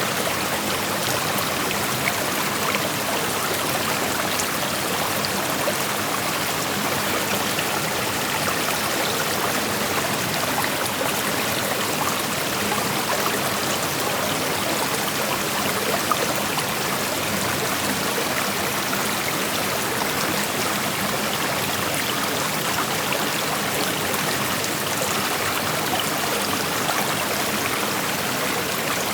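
Creek water flowing steadily, a continuous even rush of moving water.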